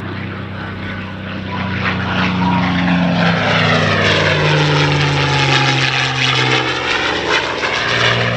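North American P-51D Mustang's Merlin V-12 engine and propeller in a display pass, growing louder from about two seconds in, its pitch dropping as it goes by.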